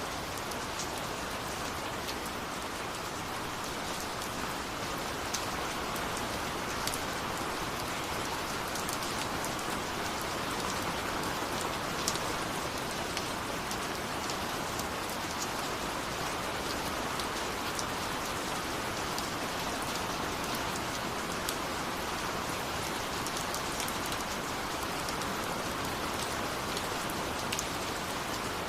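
Steady rain falling, with a constant hiss and scattered sharper drops ticking on a surface.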